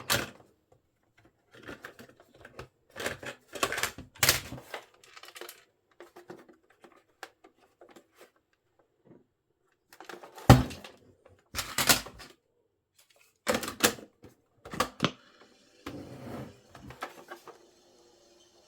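Irregular plastic clicks and clunks from handling a vintage Philips radio cassette recorder, its keys and casing knocked and pressed. A faint steady hum comes in near the end.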